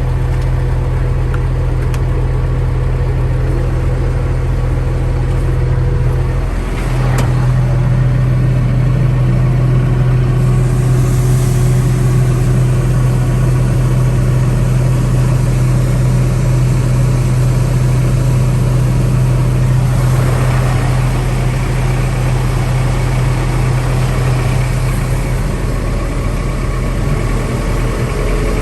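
Diesel engine idling steadily, with a brief dip in its note about six and a half seconds in.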